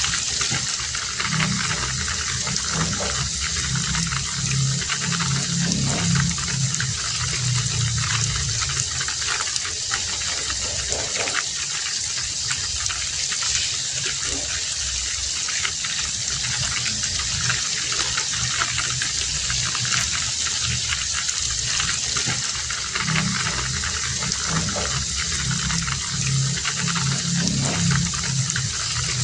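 Heavy rain falling steadily, a dense even hiss. A low rumble swells in for several seconds near the start and again near the end.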